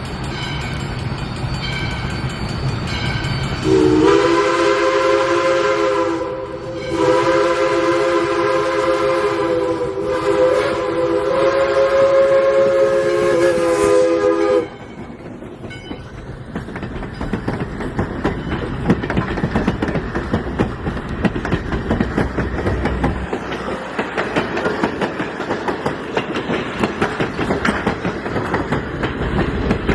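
Steam locomotive No. 40's chime whistle blown in a long blast of a few seconds, then after a short break a second blast of about eight seconds, several notes sounding together. After the whistle stops comes a steady noisy rush with a rapid uneven beat as the locomotive runs.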